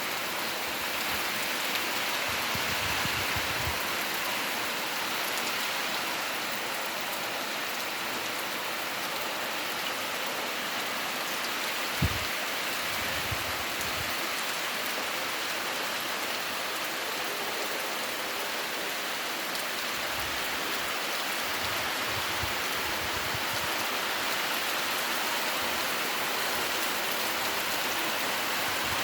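Heavy rain falling steadily, an even hiss of drops on surfaces, with one short thump about twelve seconds in.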